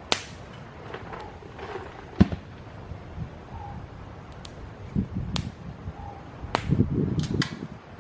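Campfire wood crackling: about six sharp pops spread across the few seconds, two in quick succession near the end, over a low rumble.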